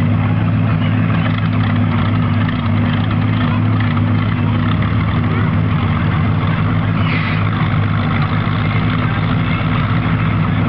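Hot-rodded pulling tractor's engine running loud and steady at an even, low pitch, with no revving.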